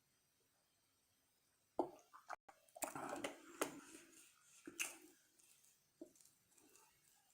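Eating French fries close to the microphone: irregular chewing, smacking and mouth clicks that start about two seconds in, after a quiet start.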